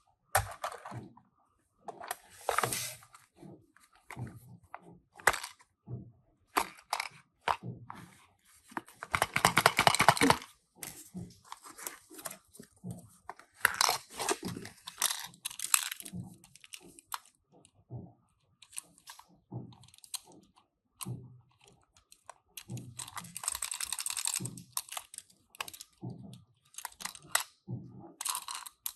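Hands unboxing Tomica die-cast toy cars: irregular crinkling, tearing and clicking of cardboard and plastic packaging, with a longer, louder rustle about nine seconds in and another around twenty-three seconds.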